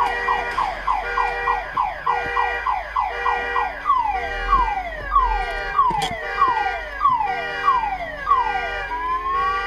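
Car alarm sounding, cycling through its tones: a rapid series of falling electronic whoops, slowing to about two a second, then a rising tone near the end. A sharp click cuts in about six seconds in.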